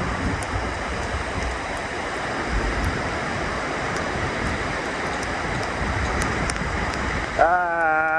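Hurricane-force wind and surf making a steady rushing noise, with wind buffeting the microphone. Near the end a steady pitched tone with a short upward slide at its start comes in.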